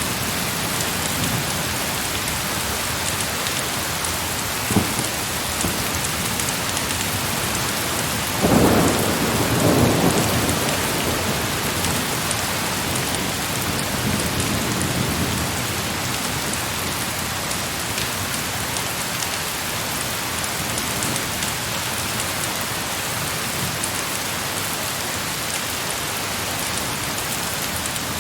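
Heavy rain falling steadily. About a third of the way in comes a roll of thunder that swells and fades away over several seconds. A single sharp click comes a few seconds before it.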